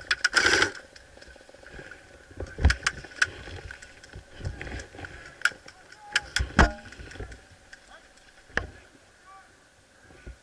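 Scattered sharp snaps and knocks from airsoft guns firing single shots, irregularly spaced, with a quick group of three about six seconds in and a last one near the end.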